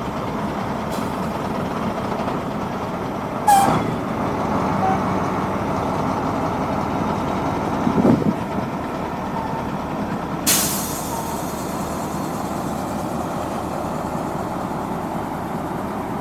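Heavy road-works vehicles running steadily on diesel engines, with two short sharp hisses, about 3.5 and 10.5 seconds in, and a brief louder rumble around 8 seconds.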